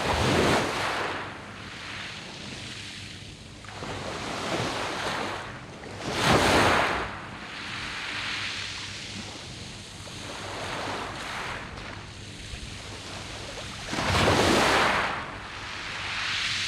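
Sea waves breaking and washing over the round pebbles of a pebble beach, the hiss of surf swelling three times, about six to eight seconds apart. The loudest surge comes about six seconds in.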